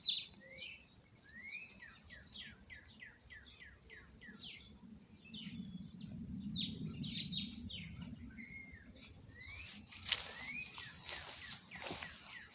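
Backyard songbirds chirping: many short, quick chirps, most sliding downward, coming in fast runs. A low rumble swells in the middle, and a few sharp knocks or rustles come near the end.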